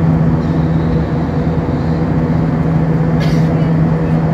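Steady cabin noise of an Airbus A320-232 in flight: a constant rush of air with a low engine hum from its IAE V2500 engines. A short hiss comes in about three seconds in.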